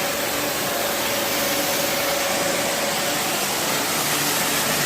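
High-pressure washer running, its three-piston pump driven by an electric motor, with the water jet spraying as an even, steady hiss. A steady tone under the hiss fades out about three seconds in.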